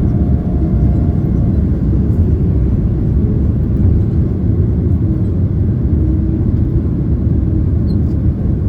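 Cabin noise inside a Boeing 767-300ER airliner in flight: a steady, deep rumble of engines and rushing air. A faint higher hum fades out about a second and a half in.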